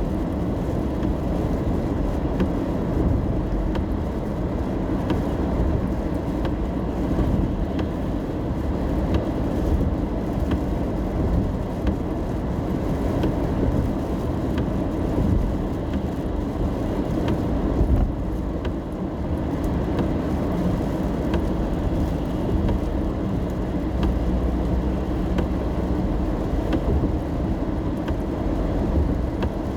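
Inside a car driving in the rain: a steady low rumble of road and engine noise, with faint scattered ticks over it.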